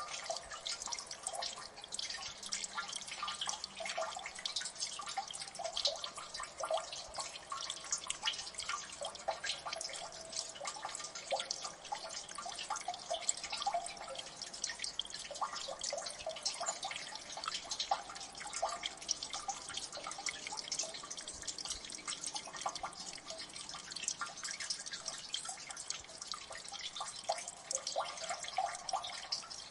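Water dripping in a gully: many drops falling at once in a dense, irregular patter of small plinks.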